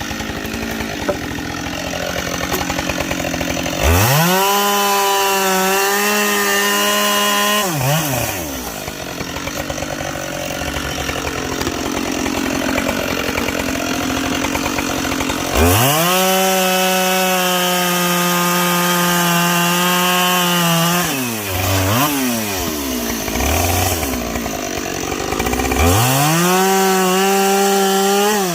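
Two-stroke chainsaw bucking logs: it revs up to full throttle three times, holding a high, steady pitch for several seconds in each cut, and drops back to idle in between.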